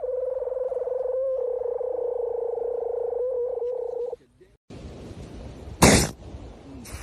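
A seal gives one long, steady-pitched, rattling call lasting about four seconds, with two brief breaks. The call cuts off, and after a short gap comes wind and surf noise with a loud burst of noise about six seconds in.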